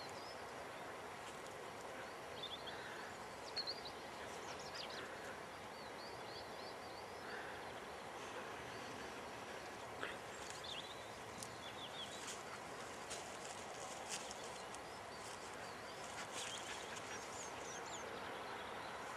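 Small birds chirping in short, scattered calls over a steady outdoor hiss, with a few faint clicks.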